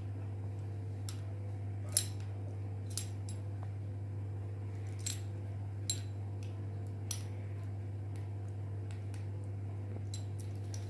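A few sharp metallic clicks and clinks spread over several seconds as a bearing puller is handled and set onto a ceiling fan's motor shaft, over a steady low hum.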